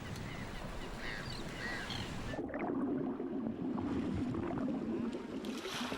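Rushing, gurgling seawater around a swimming seal. About two and a half seconds in, it turns muffled and low, like water heard from below the surface.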